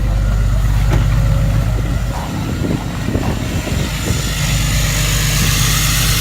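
2014 Ram 3500's Cummins 6.7 inline-six turbodiesel idling steadily through a 5-inch straight-through turbo-back exhaust, still cold after a −4°F start. A faint high whine builds near the end.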